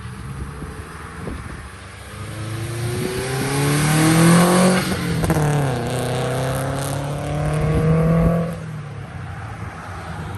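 A car accelerating hard, its engine revving up, dropping in pitch at a gear change about halfway through, then climbing again before backing off near the end.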